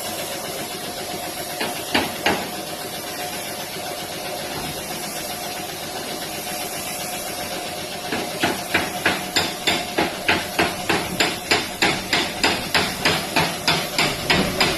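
Hammer blows on the sheet-metal body of an accident-damaged car, panel beating: two strikes about two seconds in, then a steady run of about three blows a second from a little past the middle. A steady mechanical hum runs underneath.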